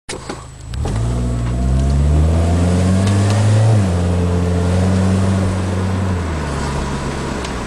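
Acura TSX's 2.4-litre K24A2 four-cylinder breathing through a Fujitsubo exhaust, high-flow cat and Comptech headers, accelerating. The note rises in pitch for a few seconds and drops suddenly at an automatic upshift nearly four seconds in. It then holds steady and eases off near the end.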